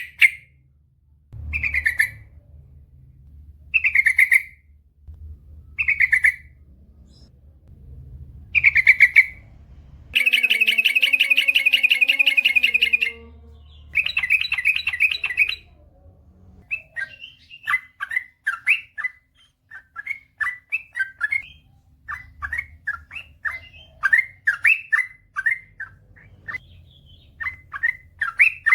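Yellow-vented bulbul (trucukan) singing. First come short bubbly phrases about two seconds apart, then a fast unbroken run about ten seconds in, and from about halfway on a long string of quick chirps several per second, the long rapid song prized in trucukan.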